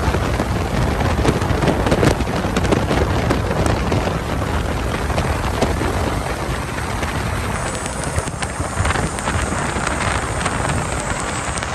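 Steady rushing noise of wind buffeting the microphone, mixed with vehicle sounds on a blizzard-hit road. It changes character about eight seconds in, turning hissier.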